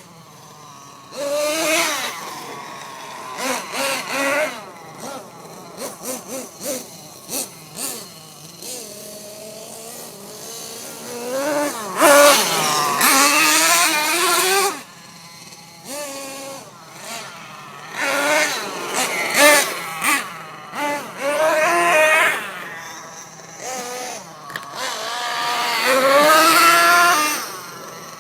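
Small nitro RC monster truck engine revving in repeated bursts, its pitch climbing and falling with the throttle, with quieter stretches between runs.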